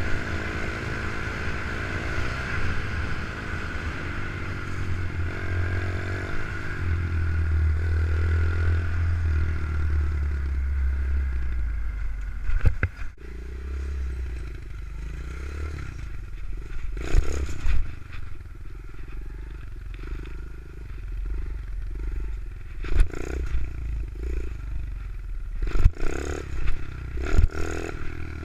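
Pit bike engine running and revving up and down through the first half. After that it drops away, leaving scattered knocks and clatter.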